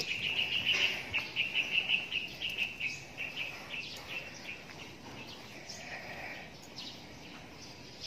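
A bird calling a fast run of short high chirps, about five a second, fading away after three or four seconds, over faint outdoor background noise.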